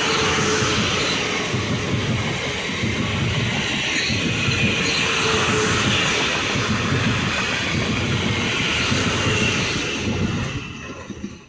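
Electric train running past at the platform: a loud, steady rush with a faint whine, fading away about ten seconds in.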